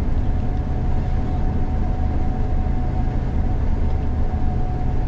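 Gleaner combine harvester running steadily while harvesting soybeans: a deep, even rumble with a thin steady whine above it, heard from inside the cab.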